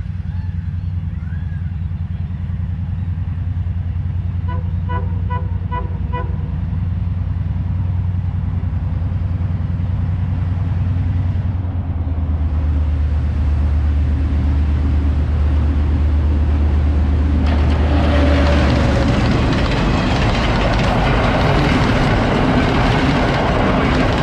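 Diesel train approaching a level crossing, its engine a steady low drone that grows louder. About five seconds in there is a quick run of about six short pitched beeps. From about 17 seconds in comes the loud rushing rattle of the train running over the crossing.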